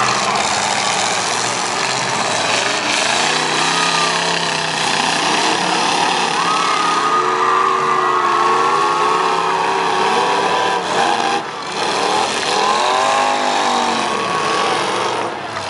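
Several demolition-derby car engines running and revving together, their pitches rising and falling, over a constant dense noise.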